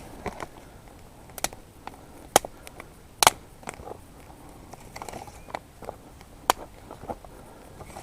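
Small campfire of birch bark and thin twigs crackling, with a few sharp, irregular pops over a quiet background.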